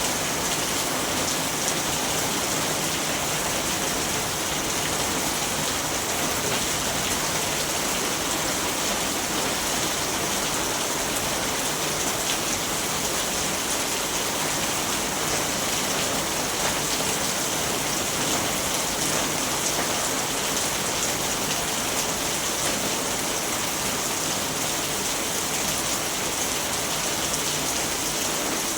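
Steady rainfall, a dense even hiss of drops pattering on surfaces, with no thunder.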